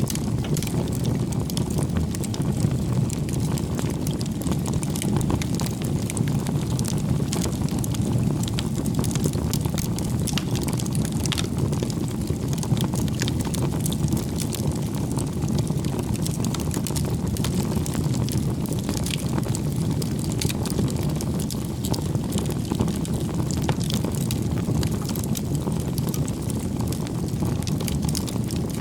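Bonfire burning: a steady low rush of flames with frequent small crackles and pops scattered through it.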